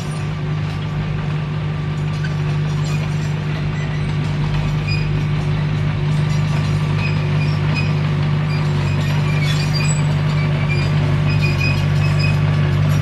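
Komatsu D21P crawler bulldozer running steadily, its diesel engine drone growing gradually louder, with the steel tracks clinking and squeaking as it moves.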